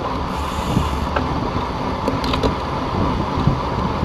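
Wind buffeting the microphone over a steady low rumble of riding along, with a few faint clicks about two seconds in.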